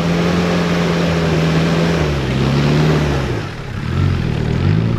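Classic Range Rover trial 4x4's engine pulling hard under load on a steep climb: a steady high note for about two seconds, then the revs fall, the throttle lifts briefly about three and a half seconds in, and it is blipped up and down again near the end.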